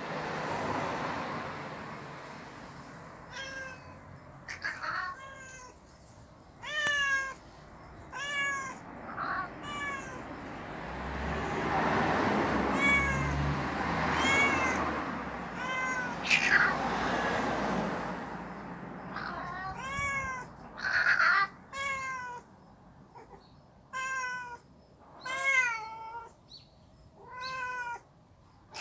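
Stray cats caterwauling at each other in a fight standoff: long, wavering yowls that bend up and down in pitch, traded back and forth about a dozen times. A rushing noise with a low rumble rises and falls midway through.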